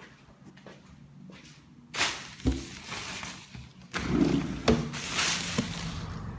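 Tractor-trailer's air brake system letting off loud hisses of air, twice, with clunks among them, over its running diesel engine, whose rumble grows louder about four seconds in.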